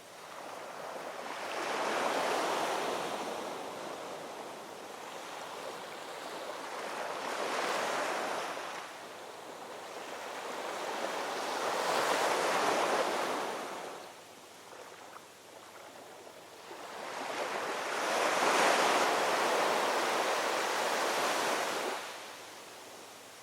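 Ocean waves breaking and washing up on a shore, four swells in turn, the last the longest, each rising and falling away.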